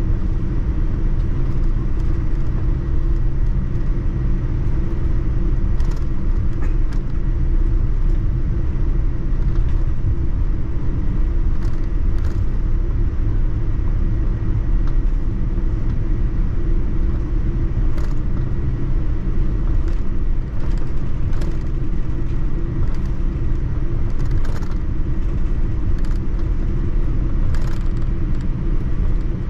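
Cabin noise of a Boeing 787-9 airliner taxiing: a steady low rumble of the engines and airframe, with scattered light clicks and rattles from the cabin.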